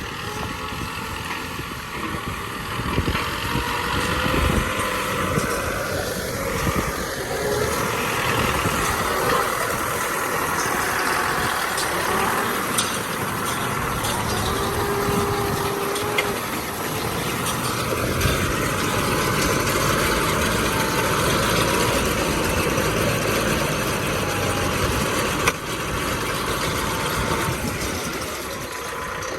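Kubota M6040 tractor's diesel engine running steadily, with a sharp knock near the end.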